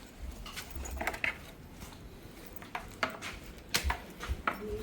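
Scattered clicks, knocks and light clinks of tools and parts being handled while the fridge's fan motor is worked on for replacement.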